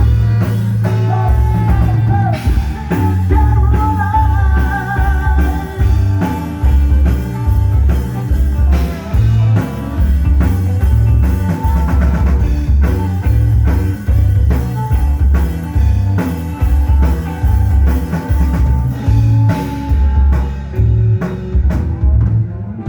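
Rock band playing a song with singing, drum kit, heavy bass and electric guitar. The highest frequencies thin out in the last few seconds.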